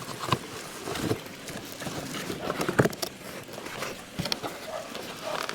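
Packaging being handled: a cardboard box and bubble wrap rustling and crinkling, with scattered light knocks as a wrapped part is lifted out.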